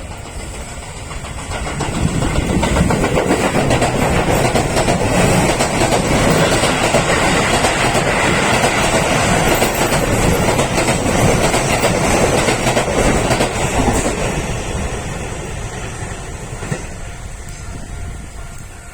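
Keio electric train running along the tracks: it grows loud about two seconds in, stays loud for some twelve seconds, then fades away.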